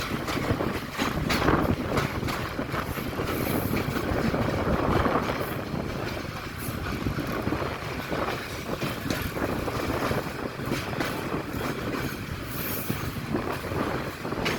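Train running on rails, heard from on board: a steady rumble of wheels and carriage with scattered clicks and knocks.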